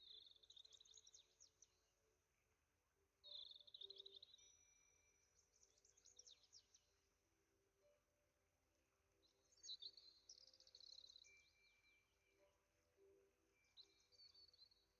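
Faint birdsong: high-pitched chirping and trilling phrases, about five of them, each a second or two long with short pauses between.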